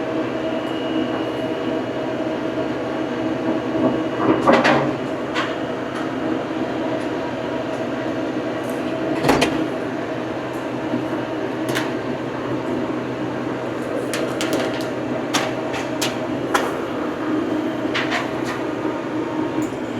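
Old farm tractor's engine running steadily while pulling a bush hog mower, with sharp knocks and rattles now and then, several clustered near the end.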